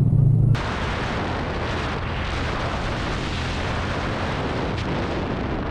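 Steady wind rush buffeting the microphone of a riding motorcycle's camera, an even rushing hiss. It cuts in abruptly about half a second in, after a brief loud low hum.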